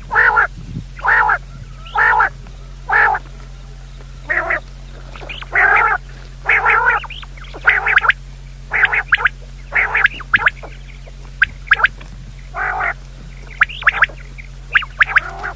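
A bird calling over and over: short, nasal, harsh calls about once a second, becoming quicker and more broken up in the second half.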